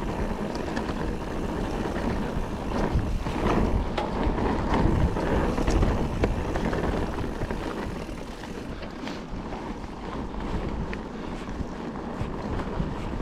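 Mountain bike riding a dry, loose dirt trail: tyre roar and crunch over gravel, with clicks and rattles from the bike and wind buffeting the action-camera microphone. It eases off a little in the second half.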